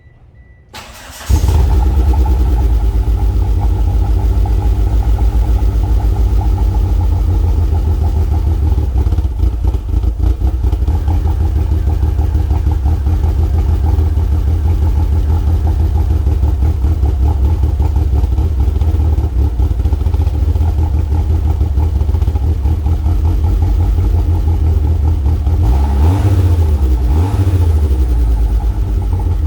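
1998 Mitsubishi Eclipse GS-T's turbocharged 2.0-litre inline-four (4G63T) cold-starting: a brief crank, then it catches about a second in and settles into a steady, pulsing cold idle. Near the end the throttle is blipped a few times, the revs rising and falling.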